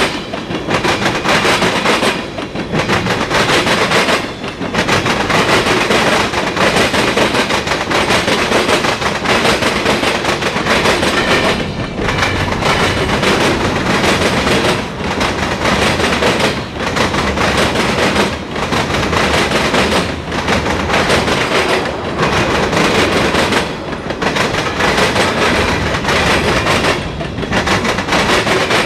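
CSX mixed freight train rolling past close by, steel wheels clattering over the rails, the loudness dipping briefly every couple of seconds.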